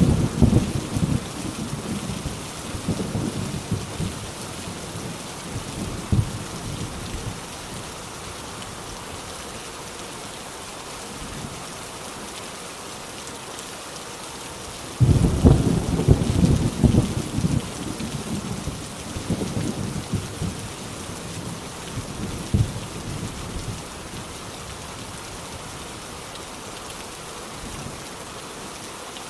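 Heavy rain falling steadily on an old rusty tin roof, with thunder: a low rumble fading over the first few seconds, a short clap about six seconds in, and a loud peal starting suddenly about halfway through that rumbles on for several seconds before dying away.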